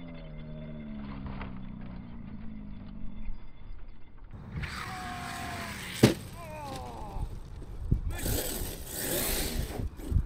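Arrma Mojave RC truck's electric motor whining in rising and falling pitches as the truck tumbles down a dirt slope, with sharp knocks of impacts about six, eight and ten seconds in and a rush of dirt and gravel near the end.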